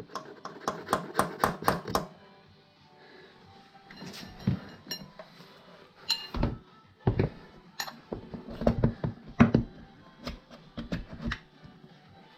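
Irregular sharp metallic clinks and knocks, like hand tools on metal, with a quick run of them in the first two seconds and another cluster near the end, over background music.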